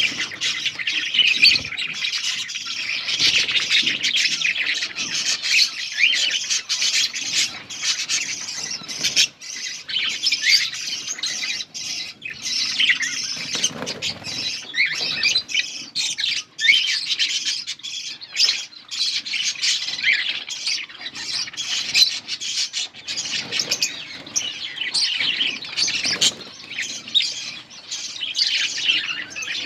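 Budgerigars chattering nonstop, a dense flock-like mix of many quick, high, overlapping chirps and warbles with no pause.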